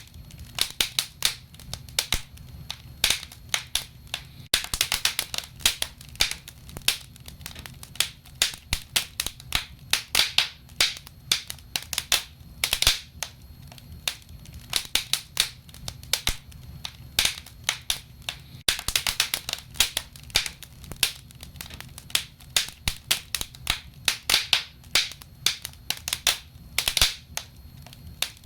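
Wood fire crackling, with many sharp, irregular pops and snaps over a low steady rumble.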